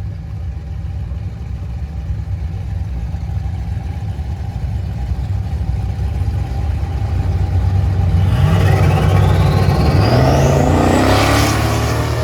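Drag racing engine rumbling low and steady, then launching about eight seconds in: a loud, rising run with a climbing high whine that peaks and starts to fade near the end.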